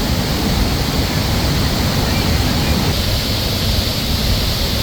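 High Falls (Cullowhee Falls) waterfall rushing loudly and steadily, its flow swollen by a dam release.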